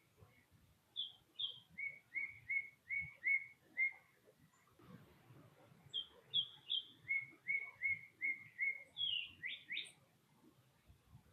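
A songbird singing two phrases of clear whistled notes. Each phrase opens with two or three high notes, then runs into five or six lower slurred notes at about three a second. The second phrase ends in a quick sweep.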